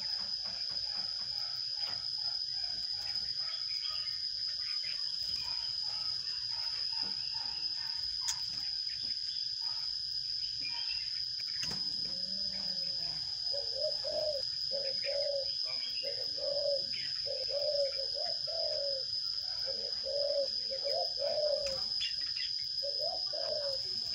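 A dove cooing, a run of short low notes about two a second from about halfway through, with scattered small-bird chirps in the first half and a steady thin high-pitched whine throughout.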